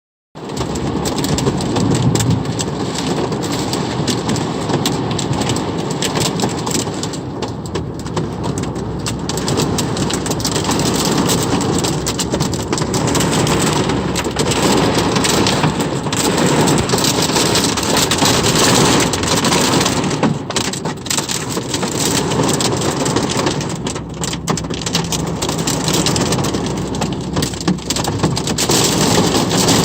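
Heavy rain pouring steadily in a thunderstorm, with dense pattering of drops striking surfaces.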